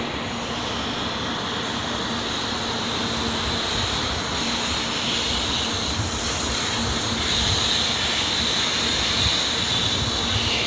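N700-series Shinkansen pulling out of the station at low speed: a steady running noise of the train's motors and wheels, with a high whine that grows louder in the second half as it gathers speed.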